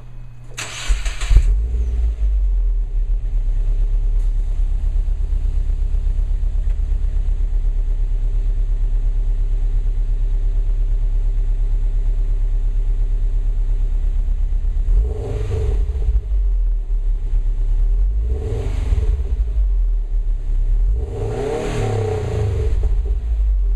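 2011 Subaru Impreza WRX's turbocharged 2.5-litre flat-four on its stock exhaust, starting up about a second in and then idling steadily. Near the end it is revved three times, each rev rising and falling in pitch, the last one longest.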